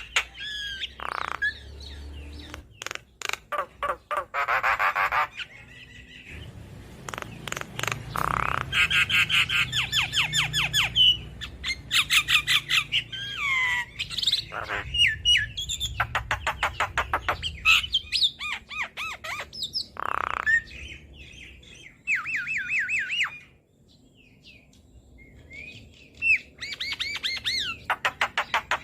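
Javan myna (jalak kebo) singing a varied, chattering song: fast rattling trills, sharp clicks and down-slurred whistles, with a short pause about three-quarters of the way through.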